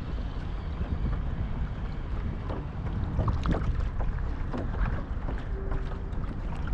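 Wind rumbling on the microphone while water laps at a kayak, with scattered light ticks and knocks.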